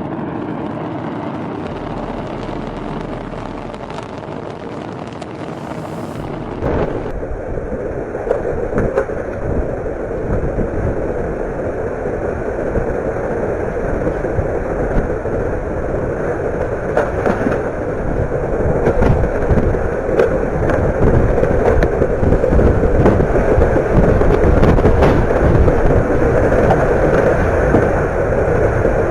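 Storm wind rushing hard over the microphone, with scattered knocks and rattles, slowly growing louder. It starts abruptly about seven seconds in, after a stretch of a different steady rushing noise.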